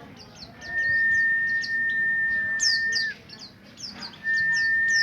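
Buxtoni white-eye (pleci) singing a fast run of thin, high, downward-slurred chirps. Twice, a louder steady whistle-like tone is held for about two and a half seconds and then falls away at its end.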